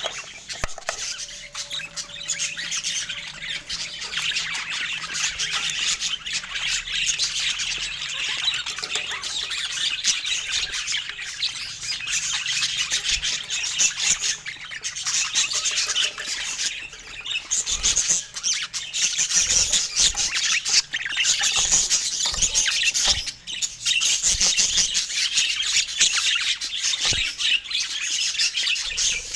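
A group of parakeets chattering and squawking without pause, many high chirps overlapping.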